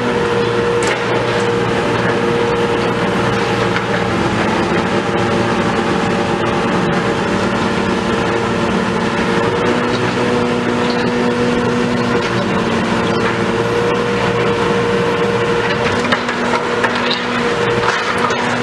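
Diesel engine of heavy demolition machinery running steadily with a constant drone, with a few scattered clicks and knocks.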